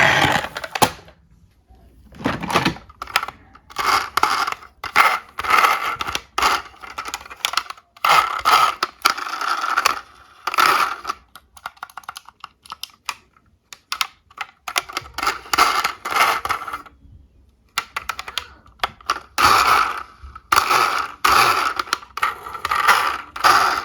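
Small die-cast toy cars clattering and rattling: a run of short, irregular bursts of hard clicks and clinks, like metal toys knocking on plastic and against each other.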